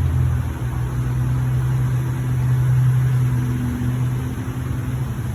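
A vehicle engine idling with a steady low hum, a faint higher tone joining it for about a second past the middle.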